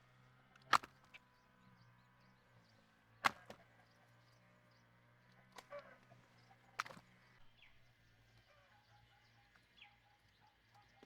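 Four sharp knocks or snaps, spaced one to three seconds apart, over a faint steady hum.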